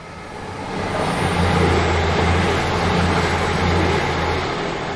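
East Midlands Railway intercity diesel train passing close by, its underfloor engines giving a steady low hum over the rumble of the wheels. The sound swells about a second in and stays loud.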